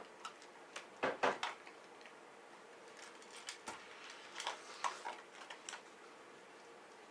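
Irregular sharp clicks and crunches of a small dog eating from a bowl: a quick cluster about a second in, then a looser string of lighter ticks.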